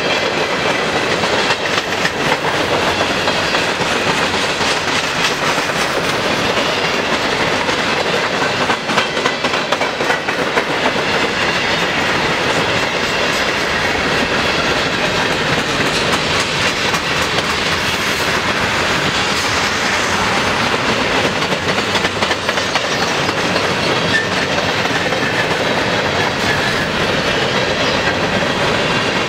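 Freight cars of a long mixed freight train rolling past: the steady rumble of steel wheels on rail, with a running clickety-clack of clicks from the wheels.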